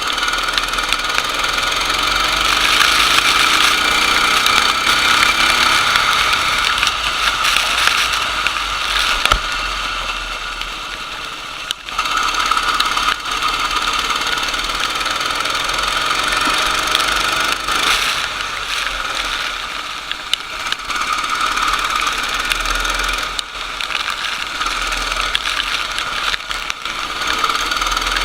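Racing kart engine running hard on track, rising in pitch as it accelerates in the first few seconds. Its loudness drops for a couple of seconds around ten seconds in and then picks up again.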